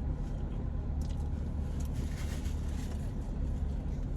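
Car engine idling with the air conditioning running: a steady low hum inside the cabin.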